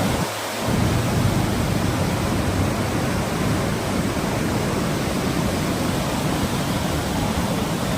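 Water rushing through a dam, a steady unbroken rush of noise.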